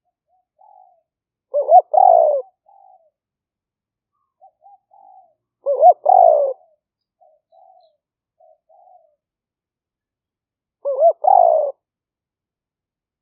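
Spotted dove cooing: three loud phrases about four seconds apart, each a short double note followed by a longer one, with soft quieter notes in between. It is a decoy dove's calling, used to lure wild doves.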